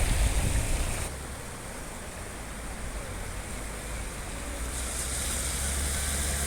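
Rushing water of a rain-swollen stream, heard as a steady noisy hiss over a low rumble; the higher hiss drops away sharply about a second in and returns near the end.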